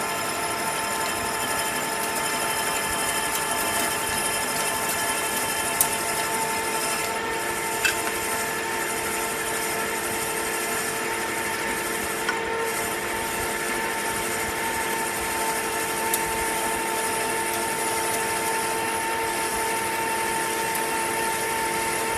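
Metal lathe running with the cutting tool taking a facing cut on 1018 cold-rolled steel: a steady whine of several even tones over a hiss, with a few sharp ticks scattered through it.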